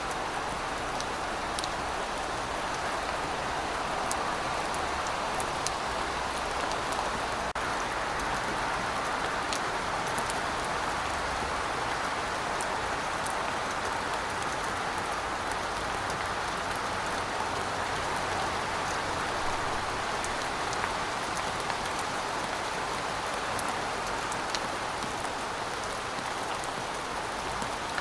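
Steady heavy rain, a dense even hiss with scattered sharp drip ticks on top.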